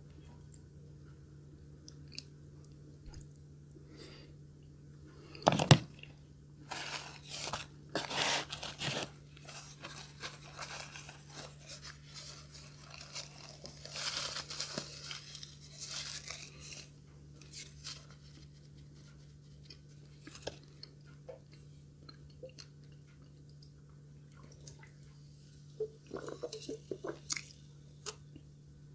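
Close-miked chewing of the last mouthfuls of Japanese curry rice, with a sharp knock about five and a half seconds in and scattered clicks of chopsticks and spoon on a plate. A tissue rubs in the middle, and there are small clicks near the end.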